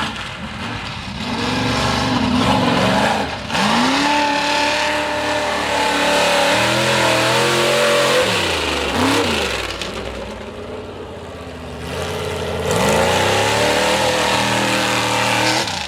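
Mega truck engine revving hard, its pitch climbing and falling several times as the throttle is worked, easing off about ten seconds in before revving up again.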